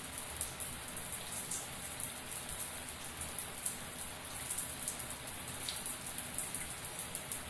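Shower water spraying and pattering steadily, a dense hiss with fine ticks of drops hitting a surface.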